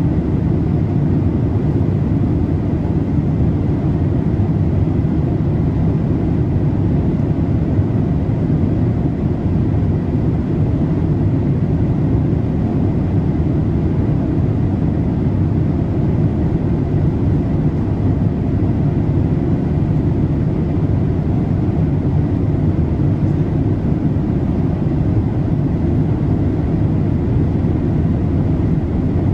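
Boeing 787-8 cabin noise in cruise: a steady, deep rush of airflow and engine noise that does not change.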